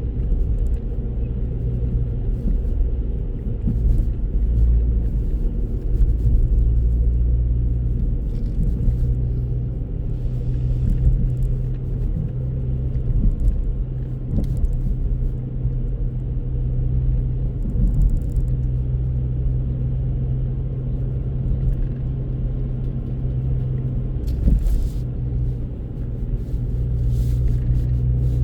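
Steady low rumble of a car driving along, with a constant drone of engine and road noise.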